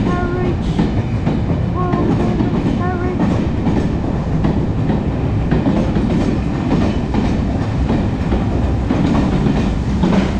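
Passenger carriages rolling past at close range: a steady rumble, with the wheels clattering over the rail joints.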